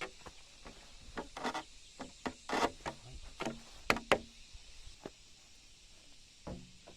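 Irregular knocks and clatter of wooden boards or timbers being handled and struck. The sharpest knocks come about four seconds in, and it goes quiet after about five seconds.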